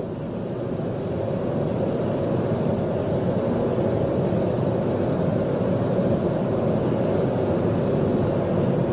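Steady road and engine noise of a police car driving at high speed in a pursuit.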